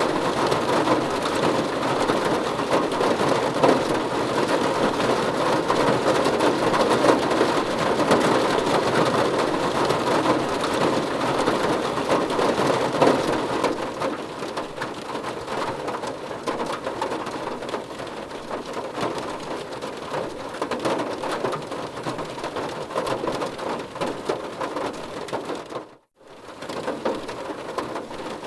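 Heavy rain falling steadily, easing somewhat about halfway through. Near the end it cuts out completely for a moment, then resumes.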